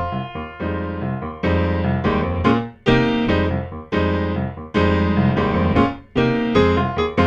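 Piano playing full chords with a strong bass, a new chord struck about once a second and fading away between strikes.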